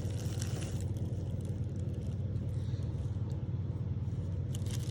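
A steady low hum, with a few faint clicks near the end.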